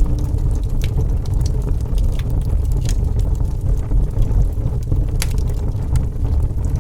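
Wood fire burning: a steady low rumble of flames with scattered sharp crackles and pops, a louder pop about five seconds in.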